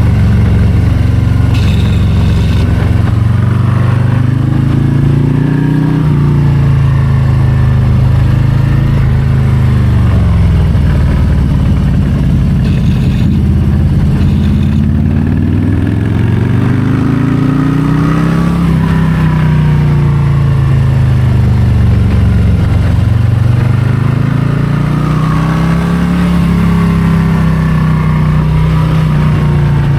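Harley-Davidson Low Rider ST's Milwaukee-Eight 117 V-twin under way through tight bends, its revs climbing and falling over and over as the rider rolls on the throttle and eases off.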